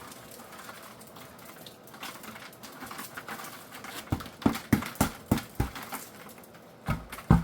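Wet concrete poured from a bucket with a soft scraping rush, then a quick run of sharp knocks as the bucket is tapped out to empty it, with two more knocks near the end.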